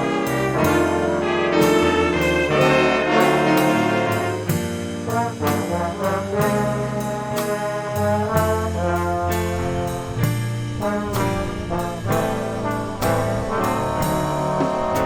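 A swing band's horn section playing an instrumental passage of a slow jazz ballad, held brass chords and melody moving over a steady beat of sharp ticks about twice a second.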